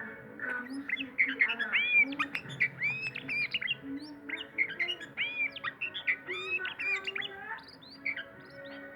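Oriental magpie-robin (kacer) singing: a fast, varied run of chirped and whistled notes that sweep up and down. The song breaks briefly about four seconds in and thins out near the end.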